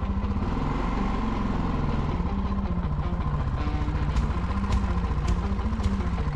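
Yamaha Ténéré 660 single-cylinder motorcycle engine running while riding, mixed with background music whose melody steps through short held notes.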